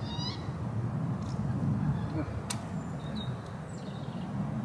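Riverbank ambience: a steady low rumble with a few short, high bird chirps near the start and about three seconds in, and a single sharp click about two and a half seconds in.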